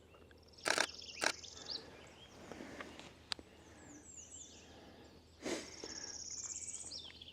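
Small songbirds singing faintly in the trees: a high, fast, buzzy trill about half a second in, scattered chirps, and a longer high trill near the end. A few sharp knocks and a click of handling noise cut in.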